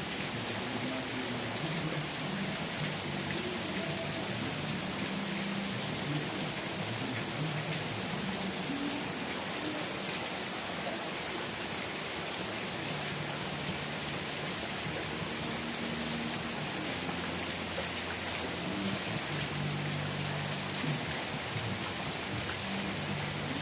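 Steady rain falling, an even hiss of drops, with faint low hums coming and going underneath.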